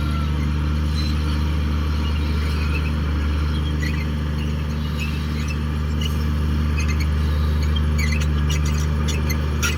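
Komatsu D58 crawler bulldozer's diesel engine running steadily. Short high squeaks and clicks come in with it, growing busier near the end.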